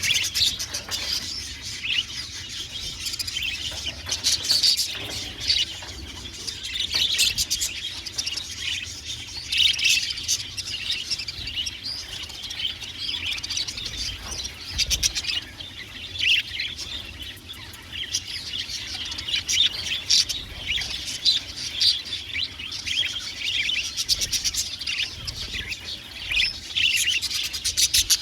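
A flock of budgerigars chirping and warbling continuously, many birds calling over each other with quick trills and chatter.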